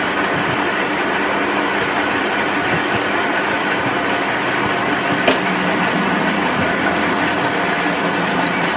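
Steady mechanical running noise from a machine, even in level, with one sharp click about five seconds in.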